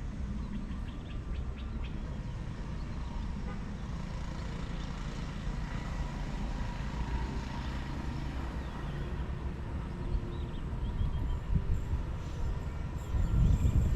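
Low rumble of an approaching diesel train, growing louder in the last few seconds.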